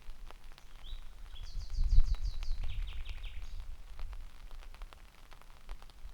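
Common nightingale singing one phrase: a short rising note, then a fast run of repeated high notes that drops to a run of lower repeated notes. Raindrops tick throughout, and a low rumble swells around the middle.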